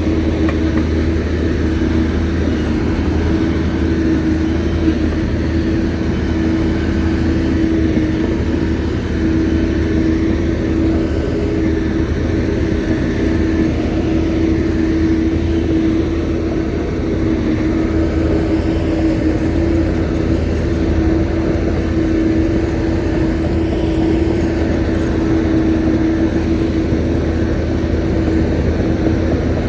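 Shantui bulldozer's diesel engine running steadily, a constant hum that holds the same pitch throughout.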